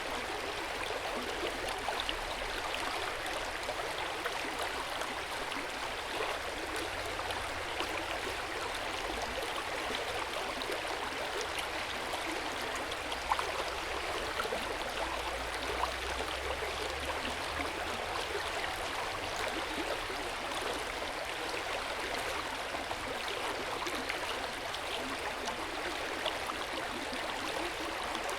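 Hot-spring water flowing steadily into an open-air bath, a continuous gentle splashing with small scattered drips and plops.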